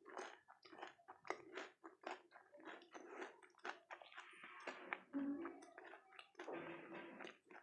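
Close-miked eating of dahi golgappe: crisp puri shells crunching and being chewed in a quick run of short crackles.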